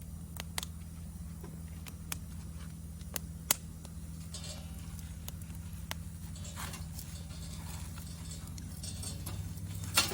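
Wood fire crackling: scattered sharp pops, the loudest about three and a half seconds in and another near the end, with brief hissing between them over a steady low rumble.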